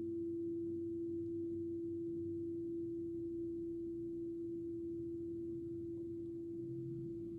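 Crystal singing bowl ringing with one steady, pure tone that slowly fades a little.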